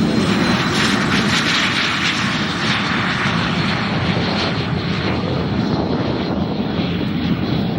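Czech-built Aero jet trainers flying a display pass, a loud steady jet rush whose high hiss slowly fades as they move away.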